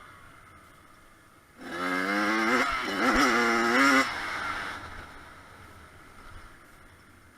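Kawasaki KX100 two-stroke motocross bike revving past on the track. About one and a half seconds in, its wavering engine note comes up and climbs in pitch under throttle. Around four seconds in it drops off sharply and fades away.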